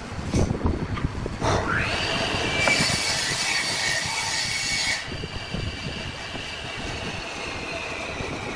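Woodturning lathe: a few knocks, then a high whine that rises quickly about a second and a half in and holds. A bright hiss of the tool cutting joins it from about three to five seconds, and the whine then slowly falls.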